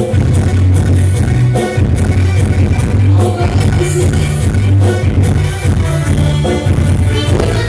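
Live Jaranan music from a Javanese ensemble, loud and continuous, with repeated drum strokes over heavy, held bass notes.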